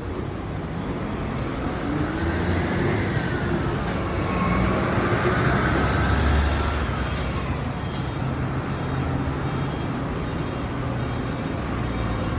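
Bus engine running loudly, its pitch rising over the first few seconds and falling again after the middle, as it is worked through a pull.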